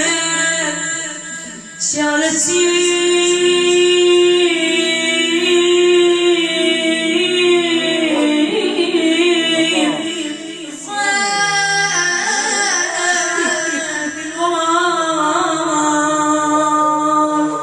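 An Arabic devotional lament for Imam Hussein, sung by a solo voice in long, held notes that bend and waver, with a short break about two-thirds of the way through.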